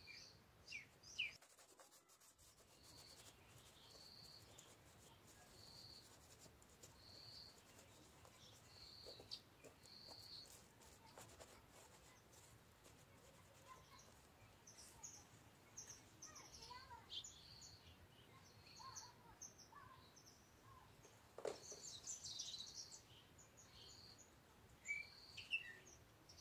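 Faint bird calls: a short high note repeated about once a second for the first ten seconds, with scattered chirps after. Faint rubbing and handling sounds from the shoes being scrubbed and moved, including a light knock about 21 seconds in.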